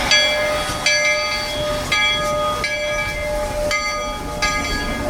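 Locomotive bell on a heritage train ringing over and over, about one clang a second, with the train running underneath.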